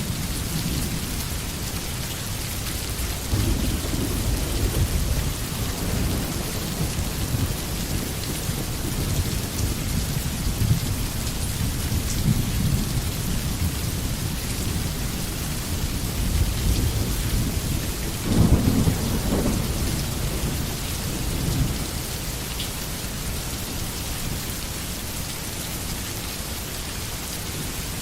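Steady rain falling with repeated low rumbles of distant thunder, the loudest one about eighteen seconds in; the rumbling dies away over the last few seconds, leaving only the rain.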